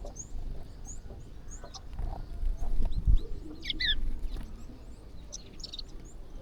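A flock of birds feeding, with many short high chirps throughout and a few louder falling calls in the middle. A low rumble with a thump about three seconds in is the loudest moment.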